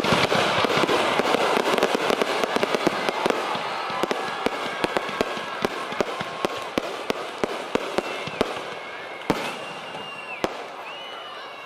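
Aerial fireworks crackling: a dense run of sharp pops that thins out over the seconds, over a haze of noise. A few short whistling tones come near the end.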